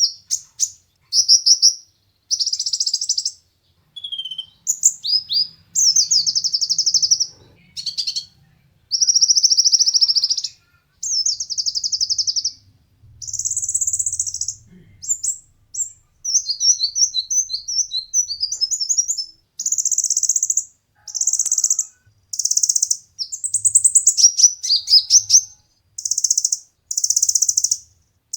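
Kolibri ninja (konin) sunbird singing loudly in a long series of short, high, fast-trilled and buzzy phrases separated by brief pauses, with a stretch of quick twittering notes partway through. This is vigorous competition-style song of the kind used to tutor other caged birds.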